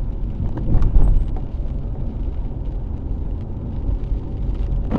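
Steady low road and engine rumble inside a moving car's cabin, with a louder swell about a second in.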